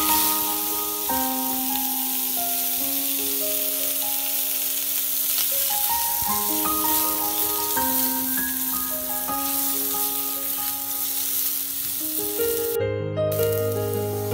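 Boiled potato wedges sizzling loudly in hot oil in a pan. The sizzle starts suddenly as they are tipped in, holds steady, and cuts out briefly near the end. Background piano music plays throughout.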